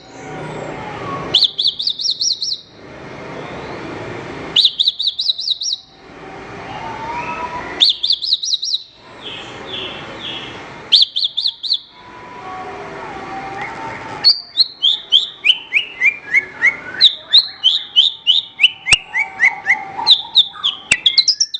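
Javan bush lark (branjangan) singing. It gives short bursts of rapid, rising high chirps about every three seconds. From about two-thirds of the way through it breaks into a longer run of quick notes that step down in pitch, repeated twice.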